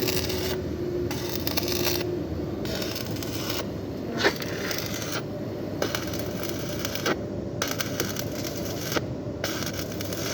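Electric arc welding on thin sheet-metal ducting, tack-welding it. The arc crackles in runs of about a second, breaking off briefly between them.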